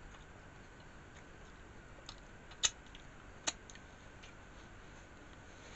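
A person chewing a mouthful of taco quietly, with three short sharp crisp clicks of mouth or food about two, two and a half and three and a half seconds in, the middle one loudest.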